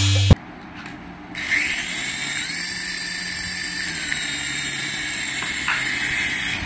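Small electric motor of a remote-control toy whining steadily after a brief spin-up, like a small power tool.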